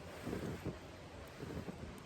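Wind buffeting the microphone in irregular gusts, a low rumble over a steady hiss.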